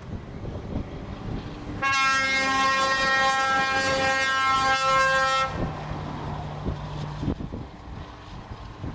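A truck's air horn sounds one long steady blast of about three and a half seconds, starting about two seconds in, over the rumble of passing truck engines.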